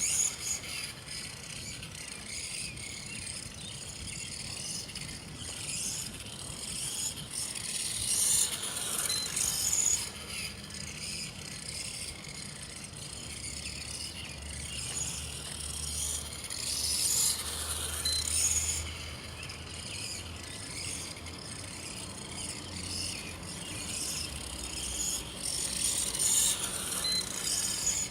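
Stock electric motor and geared drivetrain of a 1/18-scale Axial Yeti Jr. SCORE trophy truck RC car whirring as it drives, the sound swelling and fading with throttle and distance.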